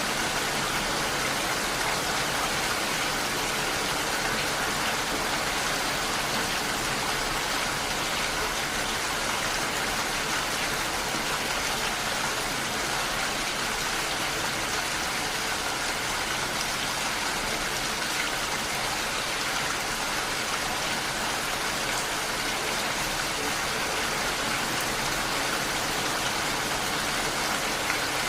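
Heavy rain falling steadily, a dense even hiss of rain without let-up.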